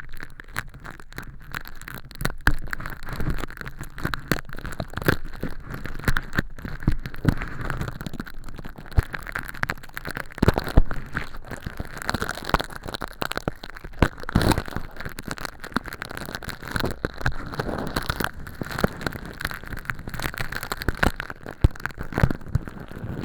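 Tweezers picking at and peeling crinkly crushed-hologram film used as mock earwax inside a clear silicone ear model: a dense, uneven run of crisp crackling and scratching clicks.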